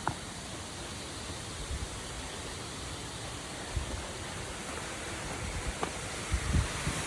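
Steady rush of a waterfall's falling water. A few short low thumps come near the end.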